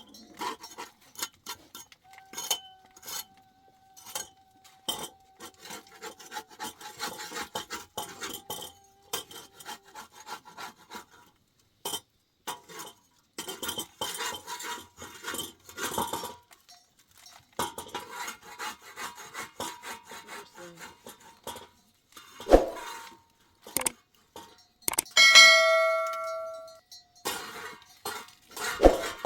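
Metal pots and utensils clinking and scraping in many small, irregular knocks. A heavier thump comes about two-thirds of the way through, then a metal vessel rings out after a strike and fades.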